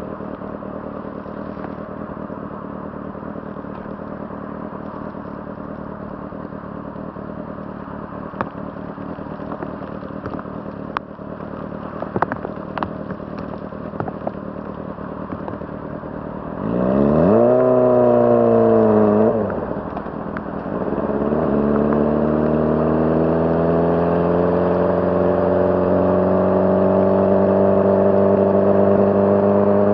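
A 2006 Honda CBR600RR's inline-four engine idles steadily, with a few sharp clicks. About two-thirds of the way through it is revved once, rising and falling. The bike then pulls away, the engine pitch climbing steadily as it accelerates.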